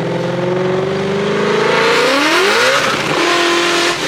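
Car engine running, its pitch climbing slowly and then quickly as it accelerates, dropping sharply just after three seconds in as it shifts up, then holding steady.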